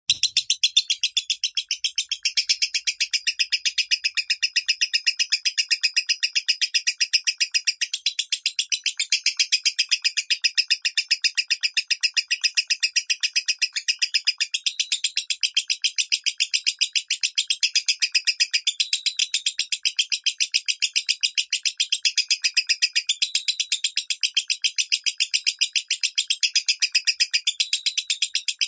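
Lovebird singing in the style Indonesian keepers call 'minor': a long, unbroken stream of fast, high chirps at an even rate, starting suddenly.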